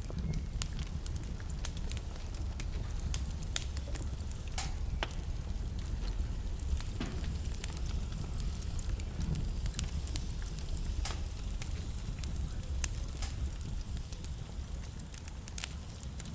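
Wood fire burning in a fireplace: a steady low rumble of flames under frequent, irregular crackles and pops from the burning logs.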